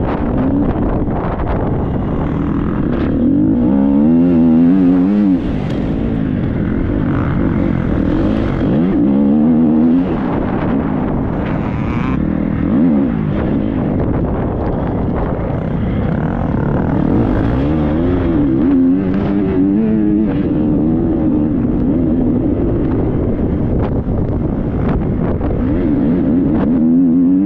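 Triumph 250 motocross bike's single-cylinder four-stroke engine under hard riding, its pitch climbing and falling again and again with throttle and gear changes, with a sudden drop about five seconds in.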